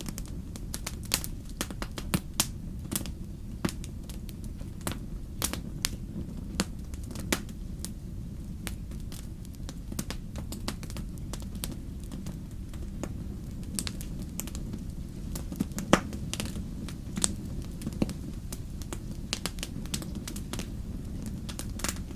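Campfire crackling: irregular sharp pops and snaps over a steady low rumble of the burning fire, with one louder pop about sixteen seconds in.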